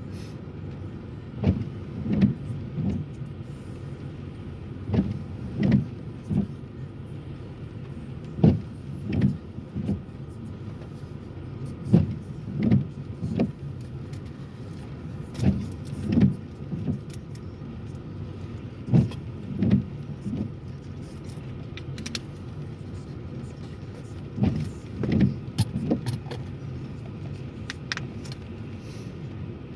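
Car interior noise while driving: a steady low rumble of engine and tyres, with a pair of short low thumps repeating about every three and a half seconds.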